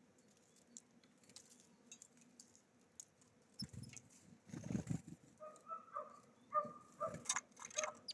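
Small birds at a feeder: light taps and clicks, a few dull thumps about four seconds in, then a run of short repeated calls, several a second, to the end.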